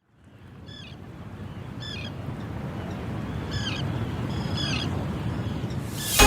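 A bird calling four times, short calls that dip slightly in pitch, over a low steady rumble that fades in at the start. Music comes in suddenly at the very end.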